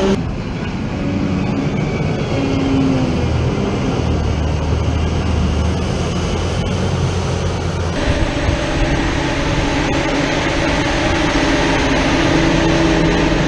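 Heavy diesel farm machinery at silage harvest running steadily, with engine tones that hold and shift; the sound changes abruptly about eight seconds in, as a different machine takes over.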